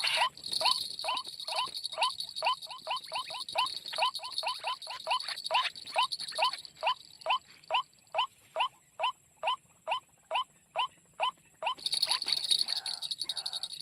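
A bird calling in a long series of short rising notes, about three or four a second, spacing out a little later on. A steady high buzz runs underneath, dropping out about halfway and returning near the end.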